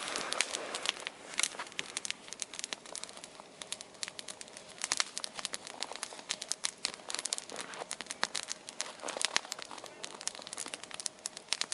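Wood campfire of small twigs crackling, with many sharp, irregular snaps and pops.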